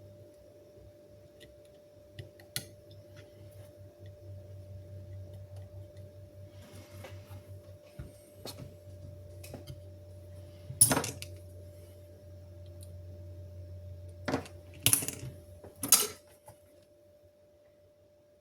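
A few sharp clicks and clinks of tools and small hard parts handled on a workbench, the loudest about eleven seconds in and three more in quick succession near the end, over a steady low hum.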